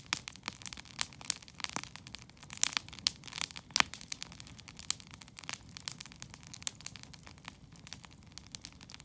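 Wood campfire crackling, with irregular sharp pops over a low steady rumble of the burning fire; the pops come thickest a few seconds in, with one loud snap near the middle.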